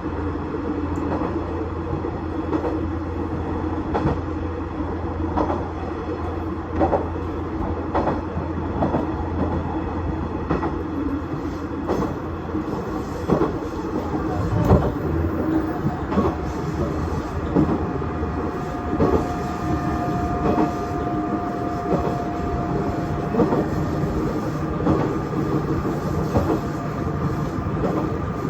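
KiHa 110 series diesel railcar running along the line, its wheels clicking over rail joints about once every second and a half under a steady engine hum. The engine note changes about halfway through, and a thin steady whine joins in after that.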